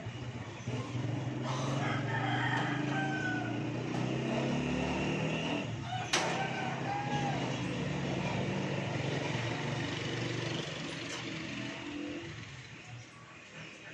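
An engine running steadily, its hum fading near the end. A rooster crows over it, twice, with a sharp click about six seconds in.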